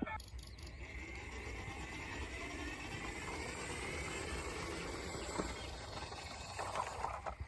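A small motor running steadily with a faint whine that drifts slightly in pitch, and a few light clicks.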